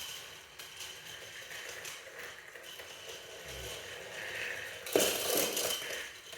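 Toy train set: a small motor whirring faintly and steadily, with a sudden sharp clatter about five seconds in.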